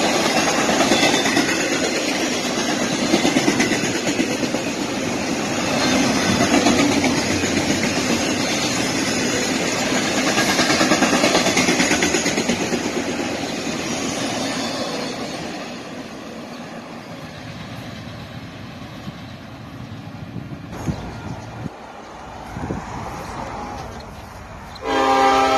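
Double-stack intermodal container train's cars rolling past on the rails, their wheel noise fading away once the end of the train has gone by. Near the end a train horn starts to sound.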